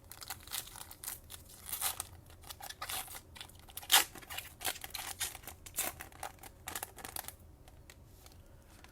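Foil wrapper of a trading card pack being torn open and crinkled, with the cards handled, a quick run of irregular crackles and rips, the loudest about four seconds in, stopping about a second before the end.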